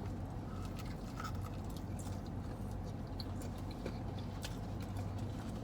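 Close-up chewing and biting into breaded fried chicken wings, with scattered small crunches and wet mouth sounds, over a steady low hum.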